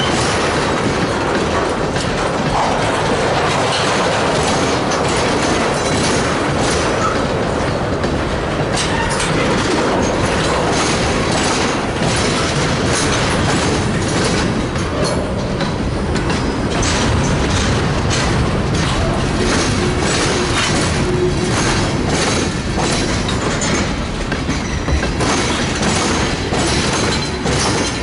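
Freight train cars rolling past, their wheels clicking steadily over rail joints, with a brief faint wheel squeal.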